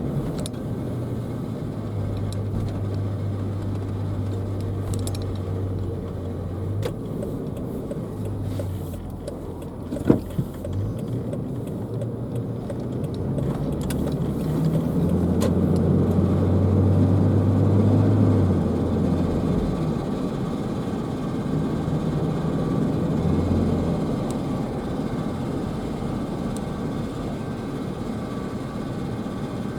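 Car driving, with steady road and running noise and a low hum that comes and goes in stretches of a few seconds, plus one sharp knock about ten seconds in. The car has a new noise from the passenger side that the owner likens to ice cubes in a blender and that stops when she brakes.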